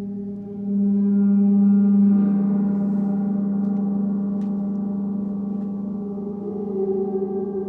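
Sound-healing instruments ringing in long, sustained layered tones with a deep hum. The tones swell louder about a second in and again near the end, as the instruments are struck or played again.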